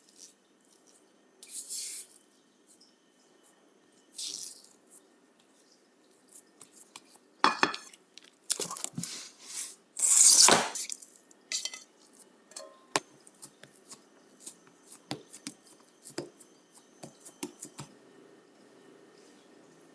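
Kitchen prep sounds of baking: utensils and containers clicking and knocking against dishes, with a few short scraping or rustling bursts. The loudest burst comes about halfway through, followed by a run of light taps.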